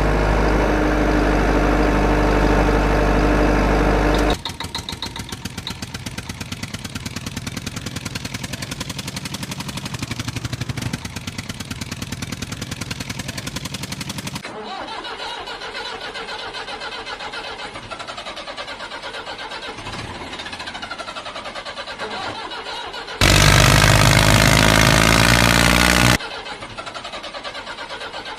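Engine sounds in several abruptly changing sections: a loud steady hum, then a fast, even chugging, then a quieter running sound rising and falling in pitch, with a loud burst of about three seconds near the end.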